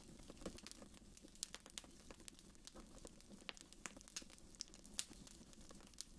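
Fireplace fire crackling: faint, irregular sharp snaps and pops, a few each second.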